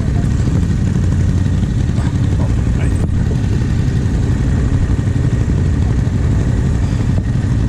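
Yamaha Ténéré 700's parallel-twin engine idling steadily.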